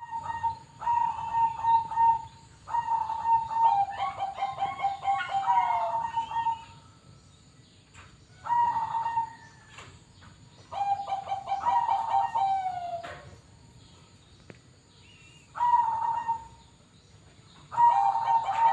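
Zebra doves (perkutut) cooing in repeated phrases of quick stuttering notes, the longer phrases ending in a note that slides down; two pitches overlap in places, so more than one dove is calling. The phrases come every few seconds with short pauses between.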